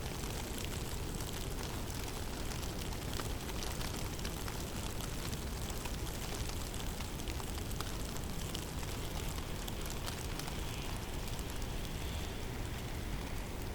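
Heavy snowstorm in a forest: a steady rush of wind with a low rumble, and a fine ticking patter of snow falling throughout.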